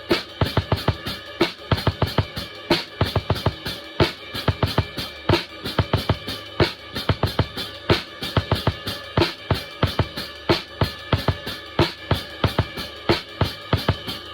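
Drum kit played in a steady, busy groove, several strokes a second with a heavier accent about every second and a third, over steady ringing tones.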